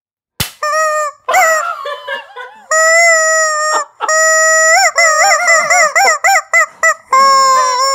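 A sharp snap about half a second in, then a rubber chicken squawking in a long run of wavering honks, some short, some held about a second, as air is forced through it: a player crying out through the chicken after a rubber band snap.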